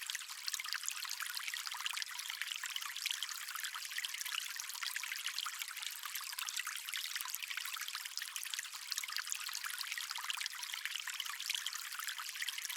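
Stream water flowing: a steady, even trickling and splashing hiss, thin and bright with no low rumble.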